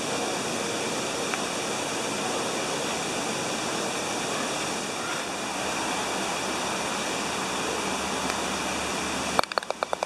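Artificial waterfall rushing steadily, a constant wash of falling water. It cuts off suddenly near the end, followed by a quick run of sharp clicks.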